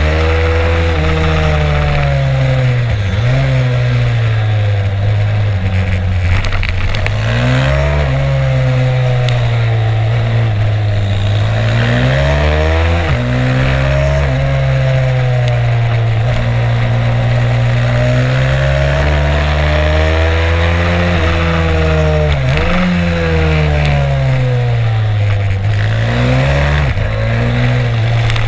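Stomp 140 pit bike's single-cylinder four-stroke engine, heard onboard while lapping a track. It revs up and down continuously, its pitch climbing under throttle and dropping suddenly several times at shifts and corners.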